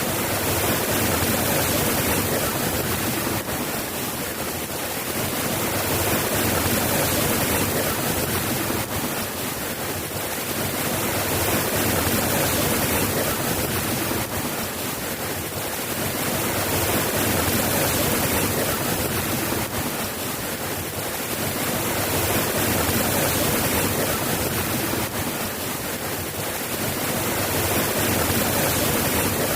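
Steady rain falling, an even hiss that slowly swells and eases every five seconds or so.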